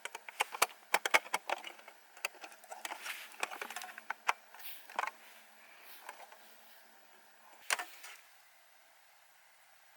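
A quick run of irregular sharp clicks and light knocks that thins out and stops about eight seconds in.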